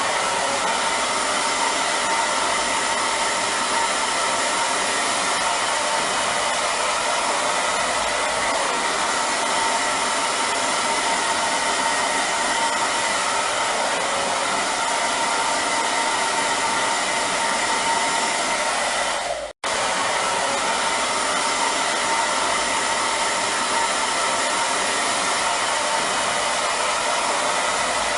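Hair dryer blowing steadily: a continuous rushing hiss with a faint steady whine. About two-thirds of the way through, it cuts out for a split second, then resumes.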